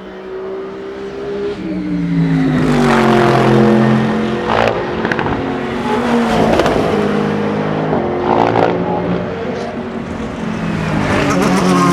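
Endurance race cars passing at speed one after another, their engine notes rising and falling in pitch as they go by, with a few short sharp cracks along the way.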